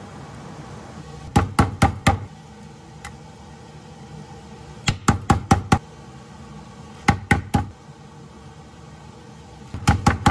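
Meat mallet pounding veal cutlets on a wooden cutting board: short bursts of three to five heavy knocks, four bursts a few seconds apart.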